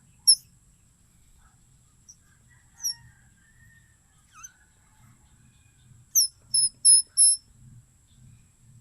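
Short, loud, high-pitched squeaky chirps from a wild flower used as a whistle, sounded by sucking air inward through it at the lips. One chirp near the start, another about three seconds in, then four quick ones in a row about six seconds in.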